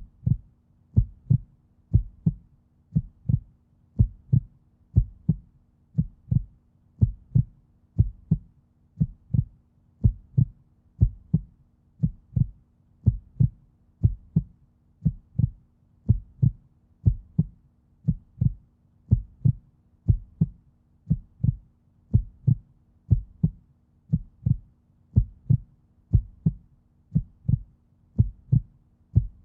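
Steady low thumping, about one beat a second, repeating evenly throughout, over a faint steady hum.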